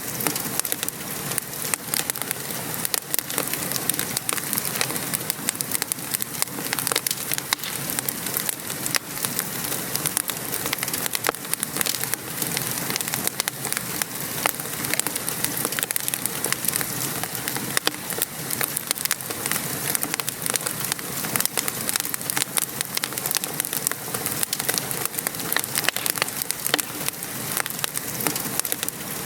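Steady rain pattering outside, mixed with a wood fire crackling and popping in many small, irregular clicks.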